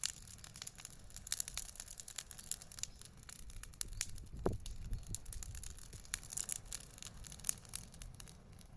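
Wood bonfire crackling: a steady run of irregular sharp pops and snaps over a low rumble of the burning fire, with a brief falling tone about halfway through.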